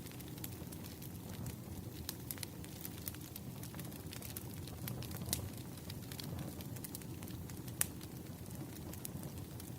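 Crackling wood fire in a fireplace: irregular sharp pops and snaps over a steady low rumble of the flames, with the loudest pop near the end.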